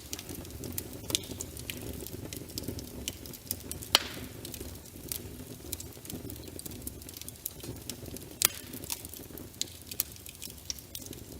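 Wood fire burning in a fireplace: steady low rumble of the flames with frequent sharp crackles, and two louder pops about four and eight and a half seconds in.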